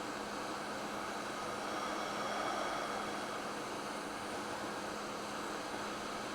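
Hot air rework station blowing a steady hiss of air through a small nozzle at a moderate airflow setting, with a faint low hum underneath; the hiss swells slightly a couple of seconds in.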